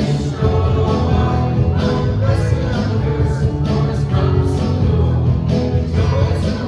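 Worship band music with a steady beat and singing.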